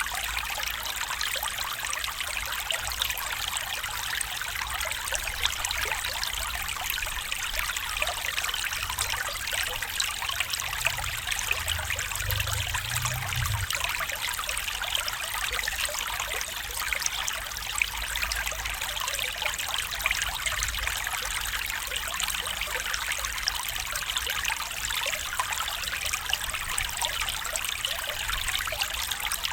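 Small stream trickling and babbling over stones, a steady bright rush of water with fine splashy detail. A faint low rumble sits under it briefly near the middle.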